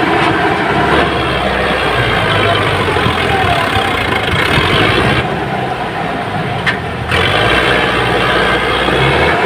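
Sonalika tractor's diesel engine running steadily while pulling a fully loaded trolley, dulling for about two seconds midway before coming back.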